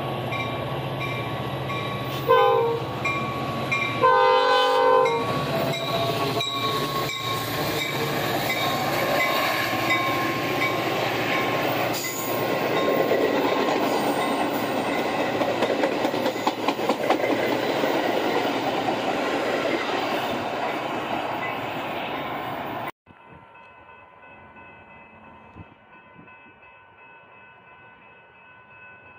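Commuter train with bi-level passenger cars sounds a short horn blast, then a longer one, and runs past with loud rumbling wheels and clickety-clack on the rails. The sound cuts off abruptly about three-quarters of the way through, leaving a much quieter stretch with faint steady tones.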